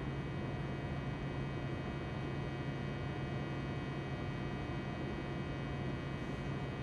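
A steady, low buzzing hum with a faint hiss behind it, unchanging throughout.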